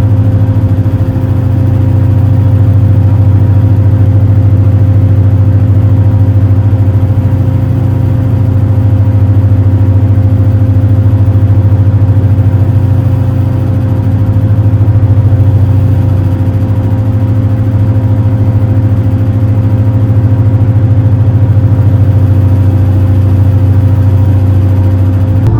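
Super Jet high-speed passenger boat's engines droning steadily under way, a loud low hum with steady higher tones above it, swelling gently in level every few seconds.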